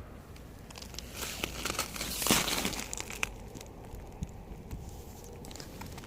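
Rustling and crinkling with scattered small clicks, heaviest around two seconds in.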